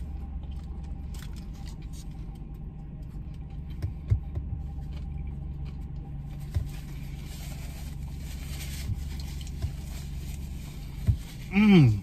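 A man chewing a mouthful of chicken sandwich over a steady low hum inside a parked car, with a few sharp mouth clicks and some soft paper-wrapper rustling. Near the end he lets out a short appreciative "mmm" that falls in pitch.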